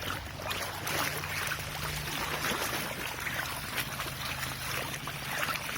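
Floodwater trickling and splashing, over a steady low hum.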